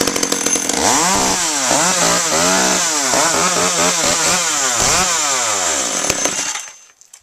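Old Frontier two-stroke chainsaw cutting through a hollow juniper log, the engine speed rising and falling again and again as it bites into the wood. It stops near the end as the cut is finished.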